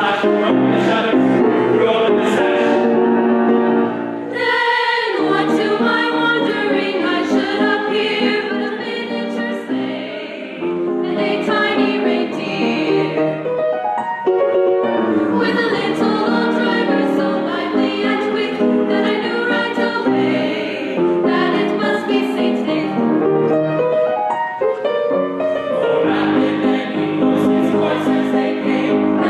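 Choir singing a Christmas carol with instrumental accompaniment.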